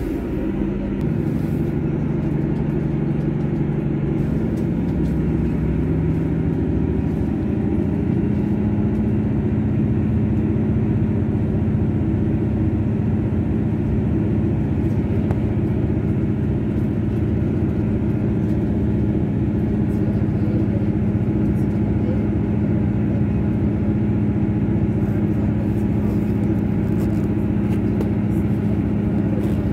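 Inside a moving diesel multiple-unit train: a steady rumble of engine and wheels on rail. The engine's low drone steps up in pitch about seven seconds in, then holds steady.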